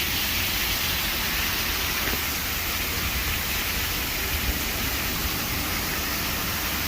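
Heavy rain pouring down in a storm: a steady, even hiss.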